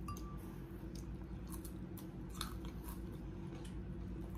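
Close-miked eating: a few soft mouth clicks and chewing sounds as rice and fish are eaten by hand off a banana leaf, over a steady low hum. The sharpest click comes about halfway through.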